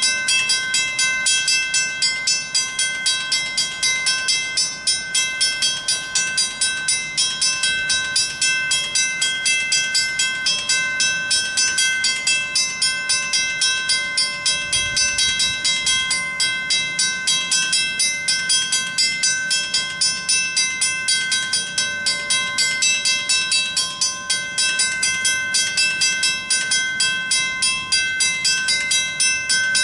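Railroad crossing warning bell ringing on and on in rapid, even strokes, about three a second, with the gates down and no train coming: the crossing is activated without a train, a false activation.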